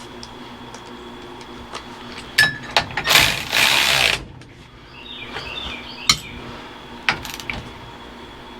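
Socket tool running down the steering-wheel nut on the column splines: scattered clicks and knocks of metal tools, with a loud clattering burst lasting about a second starting about three seconds in, then a few sharp clicks.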